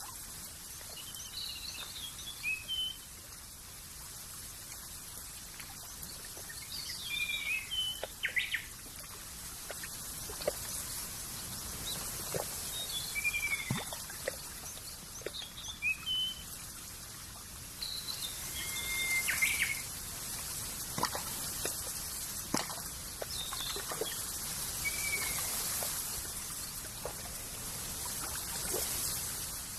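Small songbirds chirping in short, scattered calls over a steady high-pitched hiss of outdoor ambience, with faint trickling water.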